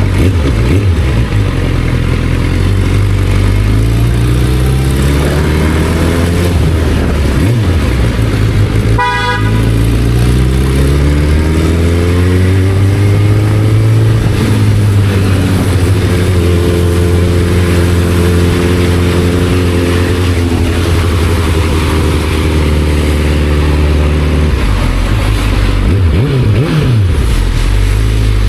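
Motorcycle engine accelerating up through the gears, its pitch climbing and dropping at each shift, then holding steady before easing off about twenty seconds in. A brief horn toot sounds about nine seconds in.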